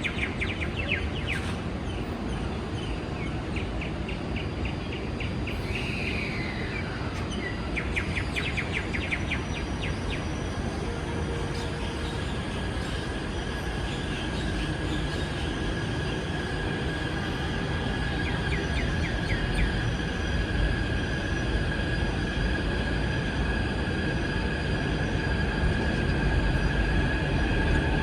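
Real birds chirping in quick trills, with one falling call a few seconds in. From about halfway, a Taipei MRT C381 train approaching adds a steady high whine and a rumble, both growing louder.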